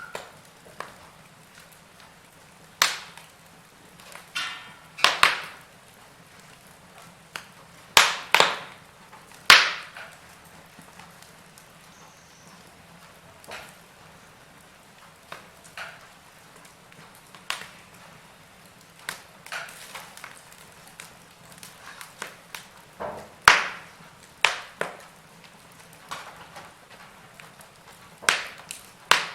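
Wood fire crackling: irregular sharp snaps and pops, several of them louder, over a faint low hiss.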